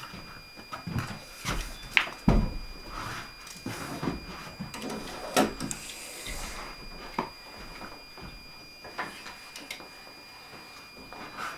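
Knocks, scrapes and clatter of wooden wall boards being handled and fitted into place, with the heaviest thumps about two seconds and five seconds in.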